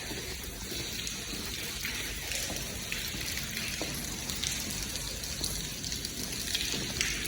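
Rainwater running and dripping: a steady splashing hiss with many small drop ticks.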